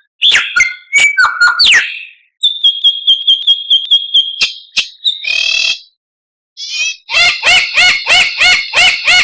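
White-rumped shama (murai batu) singing a varied song of loud whistled phrases and chirps. Sliding whistles come first, then a fast run of repeated notes; after a short pause near the middle, a series of repeated chirping notes about four a second follows.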